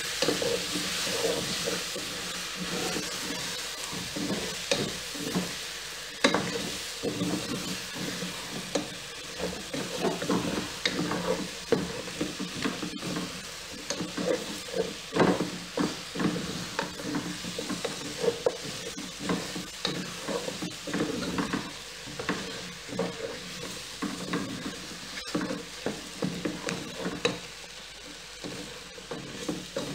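Chicken pieces with tomatoes and onions sizzling in a pot while a wooden spoon stirs and scrapes them around, giving irregular scrapes and knocks over a steady hiss. The mix is close to catching on the bottom of the pot.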